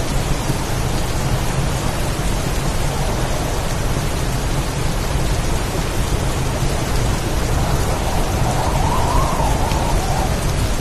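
Heavy storm rain falling steadily, with a low rumble of thunder underneath.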